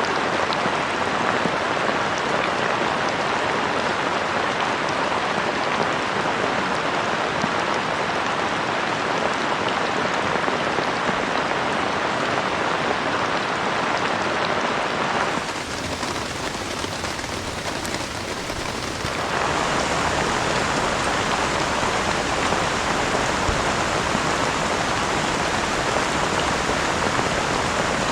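Heavy rain falling steadily, a dense even hiss of drops. It softens and changes texture for a few seconds about halfway through, then returns as before.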